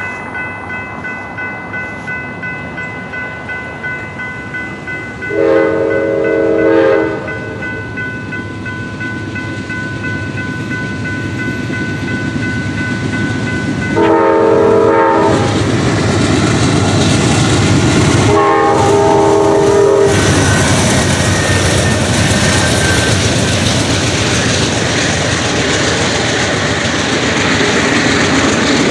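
A SunRail commuter train's horn sounds three blasts, each a second or two long, over a ringing grade-crossing bell that stops around the second blast. The train then passes close by, loud and steady, with wheels clattering over the rail joints.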